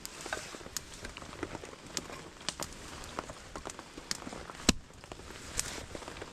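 Rain pattering with many small scattered ticks and drips, and one sharp knock about three-quarters of the way through: a strike while splitting firewood.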